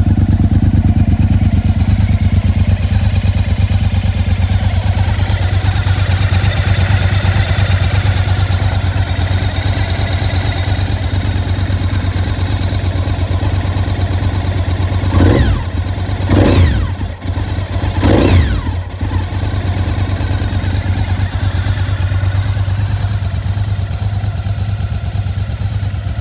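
Honda VTR1000 SP1's 90-degree V-twin engine idling steadily, with the throttle blipped three times about two-thirds of the way through, each rev rising and falling quickly.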